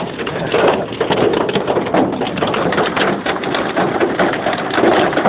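Large hailstones pelting down, a dense, continuous clatter of countless small impacts.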